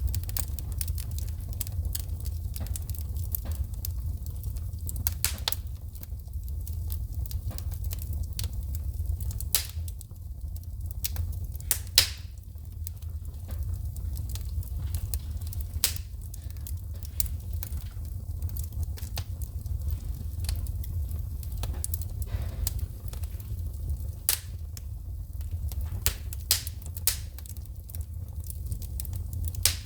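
Wood fire burning in a fireplace, crackling and popping irregularly over a steady low rumble, with a sharp loud pop about twelve seconds in.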